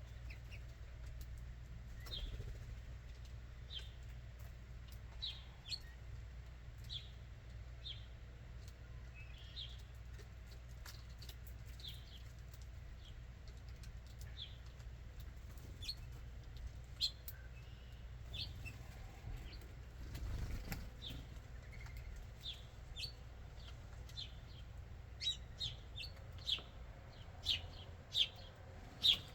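Backyard songbirds giving short, sharp chip calls about once a second, coming quicker and louder near the end, over a low steady rumble.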